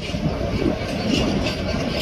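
A train running past on the line, a steady rumble of wheels on rails.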